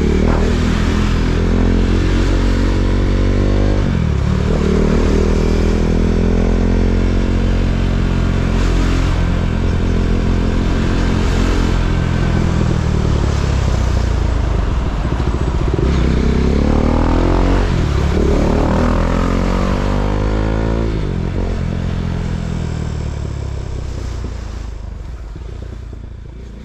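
KTM Duke 390's single-cylinder engine pulling through the gears, its pitch rising and dropping back at each upshift, easing off, then climbing through the gears again before fading out near the end.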